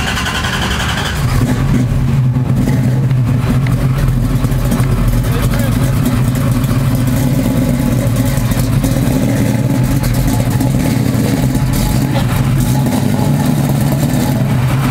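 Car engine running steadily, a low even drone that grows louder about a second in and holds.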